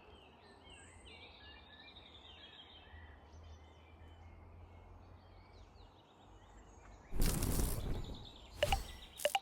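Faint songbirds chirping over a quiet woodland background. About seven seconds in, a loud noisy rustle lasts about a second, followed by two short sharp noises near the end.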